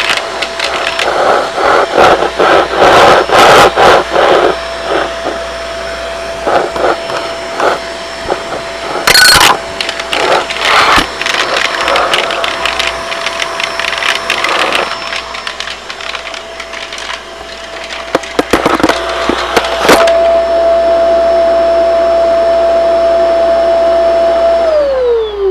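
Shark vacuum cleaner running with a steady motor whine while pennies are sucked up, clattering and rattling through the hose in quick bursts. Near the end the vacuum is switched off and the motor's whine falls as it winds down.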